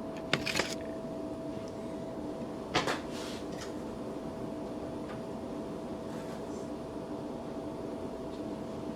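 Sharp plastic clicks and a knock as the Floating Reaper animatronic is switched on and handled, over a steady electrical hum; the figure does not start moving.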